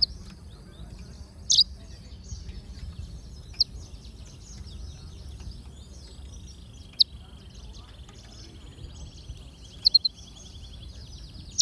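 Cage finches, yellow-fronted canaries among them, twittering over one another, with loud sharp chirps every two to three seconds and a fast, even trill running through the second half. A steady low rumble lies underneath.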